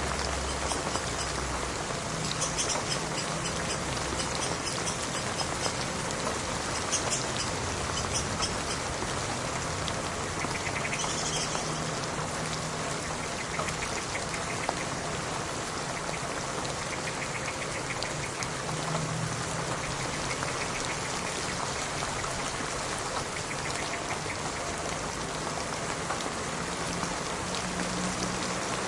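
Steady rain falling, an even hiss of dense pattering drops that runs on without a break.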